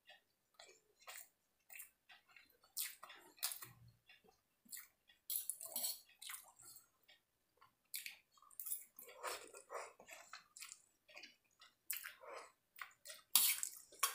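Close-miked chewing and wet mouth smacking while eating fried rice, noodles and chilli chicken: an irregular run of short moist clicks and smacks, loudest near the end.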